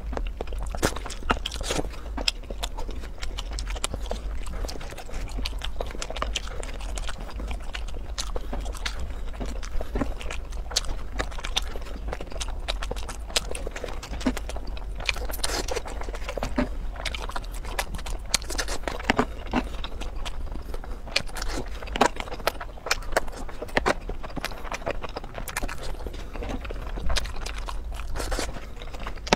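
Close-miked eating sounds: biting and wet chewing of food in sauce, with many short clicks and smacks, over a steady low hum.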